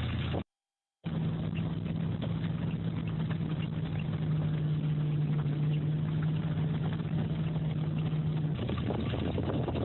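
An engine running steadily with a low, even hum. The sound drops out completely for about half a second near the start.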